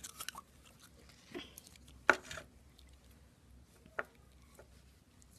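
Pink slime being handled by hand: a few scattered soft, wet clicks and squelches, the loudest about two seconds in.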